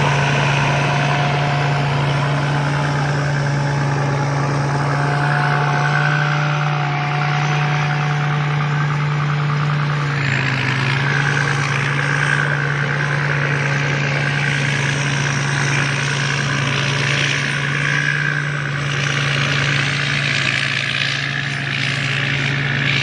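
Combine harvester engine running steadily at a constant speed, with a low, even hum.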